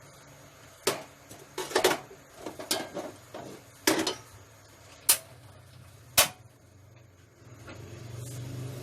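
Cooking spatula knocking and scraping against a pan as garlic, onion and ginger are stirred: a run of sharp clacks and clatters over the first six seconds. Near the end a low engine hum rises.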